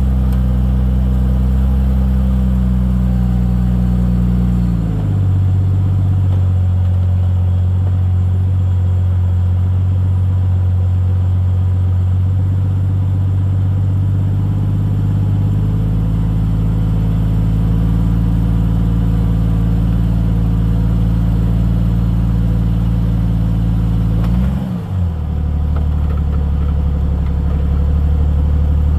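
Jeep Cherokee XJ's engine running at low crawling speed under load, its pitch dropping about five seconds in and briefly rising and falling again near the end.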